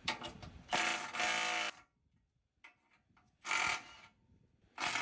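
Short bursts of a power tool running bolts out of a truck's skid plate: three bursts, the first about a second long, the later ones shorter.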